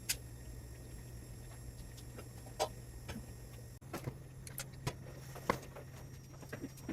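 Scattered light clicks and knocks of tools and metal parts being handled during a spot welder teardown, over a steady low hum.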